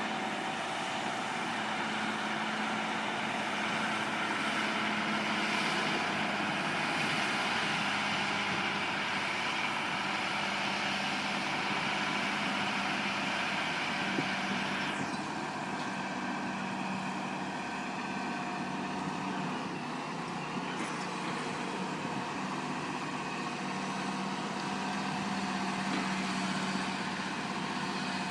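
Heavy truck engine running steadily with a constant low hum. About halfway through the sound changes abruptly and loses much of its hiss.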